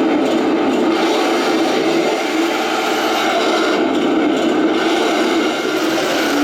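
Radio-controlled KV-1 model tank driving, its drive motors and tracks making a steady grinding, scraping noise.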